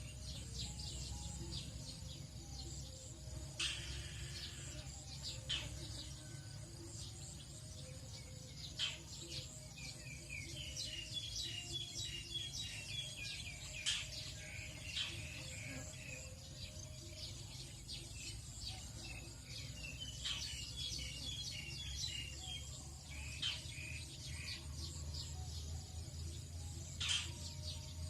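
Tropical dawn chorus of several wild birds, with many short chirps and quick series of repeated notes, over a steady low rumble.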